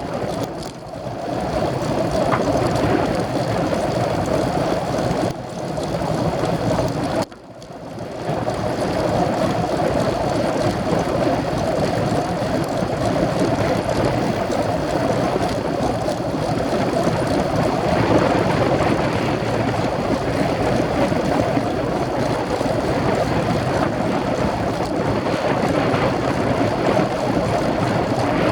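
Steady wind noise buffeting the camera microphone on a moving road bike, with a brief drop about seven seconds in.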